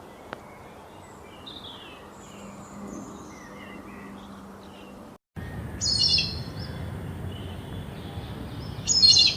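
Wild birds calling: faint, short high chirps over outdoor background noise, then after an abrupt cut a louder noisy stretch with two brief bursts of high, rapid chirping.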